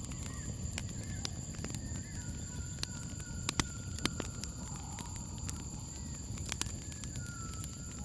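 Campfire crackling, with sharp pops scattered through, the loudest about three and a half, four and six and a half seconds in, over a low rumble. Crickets chirp in a steady high trill throughout, and faint wavering calls of animals come and go.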